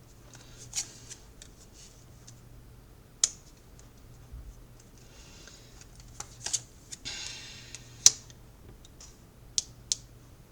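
Tarot cards being handled: sparse sharp taps and clicks, with two short rustling passages about five and seven seconds in.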